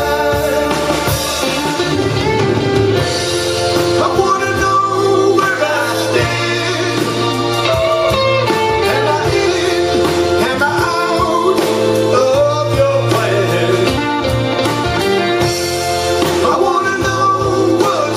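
Blues band playing live, with guitar prominent over a sustained bass line.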